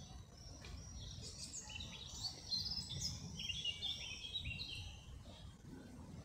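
Small birds chirping in quick, short twittering notes, busiest in the middle of the stretch, over a low outdoor rumble.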